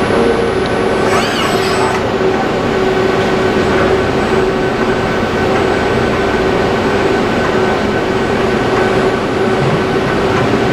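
Robotic welding cell running: a steady, loud machine noise with a constant hum and a few steady tones, and a brief warbling high sound about a second in.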